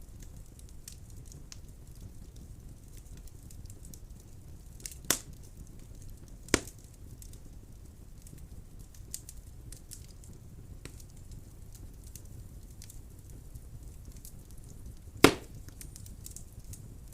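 Wood fire burning in a fireplace: a steady low rumble of flames with scattered small crackles, and three loud sharp pops, about five and six and a half seconds in and a louder one near the end.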